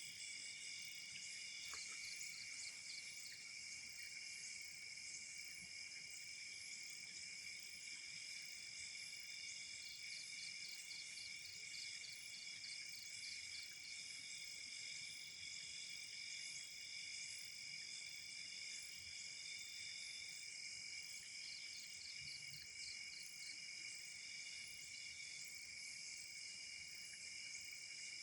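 Night chorus of crickets and other insects: several steady high-pitched trills overlapping, with a faster pulsing trill that comes and goes a few times.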